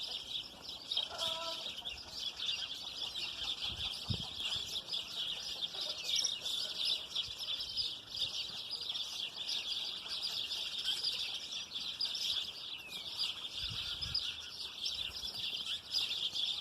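A flock of small birds chirping and chattering continuously, many high calls overlapping into a dense chorus.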